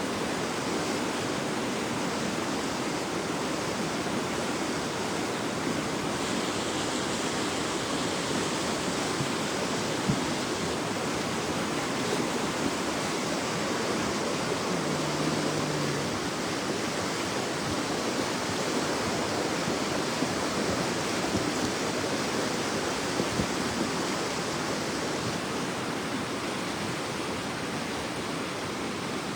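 Floodwater of a swollen river rushing steadily in a flash flood, a dense, even sound of water.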